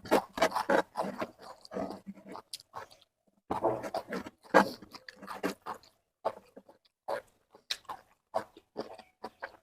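A person chewing food close to the microphone, with irregular bursts of wet mouth sounds and small clicks.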